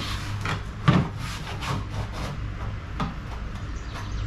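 Handling noises of a wear bar being test-fitted against a plastic jet sled's hull: a string of short scrapes and knocks, the loudest about a second in, over a steady low hum.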